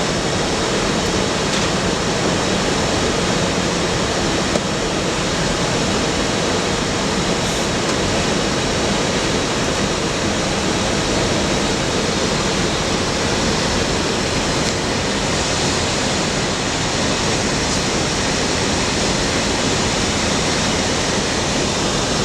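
Steady rushing noise on the flight deck of an Airbus A320 in flight: airflow over the nose and windshield mixed with the air-conditioning hiss, even and unchanging, with a few faint ticks.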